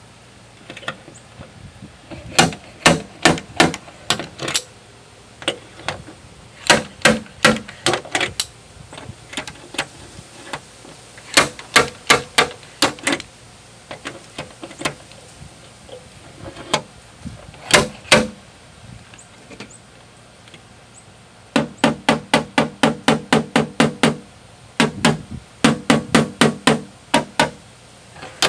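Bursts of sharp metal strikes while dents are pulled from a 1998 Toyota Sienna's steel tailgate, made with a stud puller and hammer: groups of quick blows, up to about six a second, with short pauses between. The later bursts carry a low ring from the panel.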